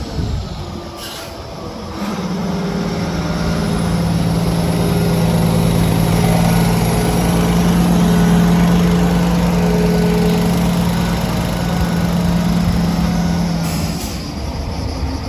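Volvo A40D articulated dump truck's diesel engine running: about two seconds in it rises to a steady, loud drone that builds gradually, holds, then drops back near the end.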